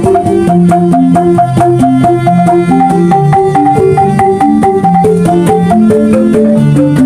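Banyuwangi angklung ensemble of struck bamboo instruments playing a traditional gending, with quick runs of repeated pitched notes over a steady beat of struck percussion.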